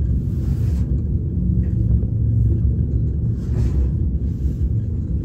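Steady, loud low rumble with a fluttering, uneven level.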